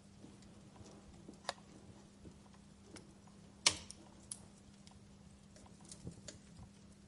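Campfire burning, the wood crackling with sparse, sharp pops; the loudest pop comes about halfway through, with a weaker one before it.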